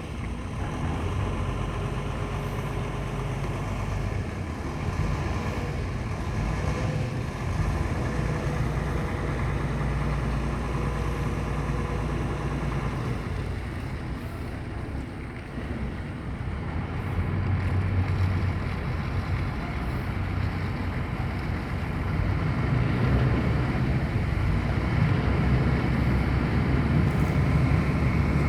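A boat's engine running as the boat is manoeuvred to come alongside, its low hum shifting up and down with the throttle and growing louder in the last few seconds.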